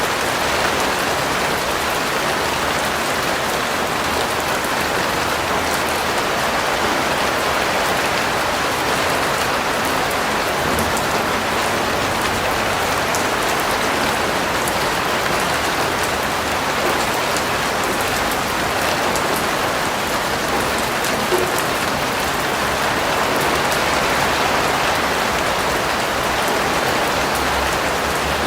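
Steady rain falling: an even hiss with fine patter of drops, and one slightly sharper drop about three quarters of the way through.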